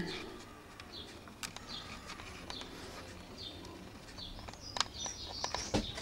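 Birds chirping in the background, short high chirps scattered throughout, with a few sharp clicks near the end.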